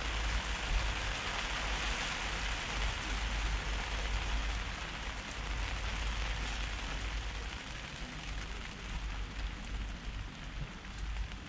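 Steady rain pattering on the fabric of a Quechua AirSeconds 4.1 F&B tent, heard from inside, with a low rumble underneath. It eases off a little in the second half.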